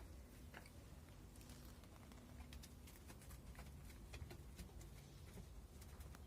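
Near silence: a faint steady low hum with scattered light clicks and taps.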